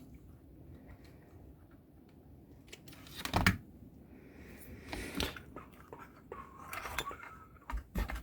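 Small metal hand tools and parts handled on a workbench during crossover-board assembly: scattered clinks and clicks, the loudest a little over three seconds in, with several smaller ones later.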